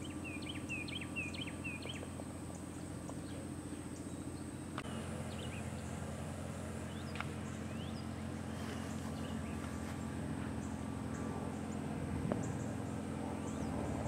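Birds chirping: a quick run of about eight short chirps in the first two seconds, then scattered calls, over a steady low hum.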